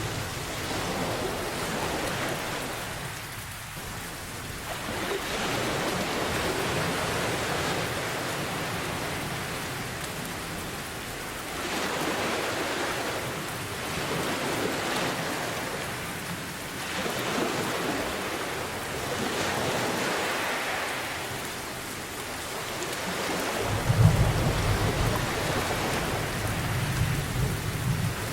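Steady rain mixed with ocean surf that swells and fades every few seconds. Near the end, a deep rumble of thunder breaks in with a loud crack and rolls on.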